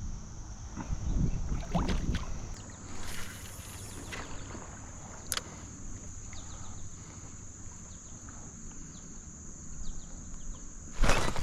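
Water and handling noise around a kayak, with low rumbling and a few scattered knocks, one sharp click about five seconds in, and a louder rush of noise near the end.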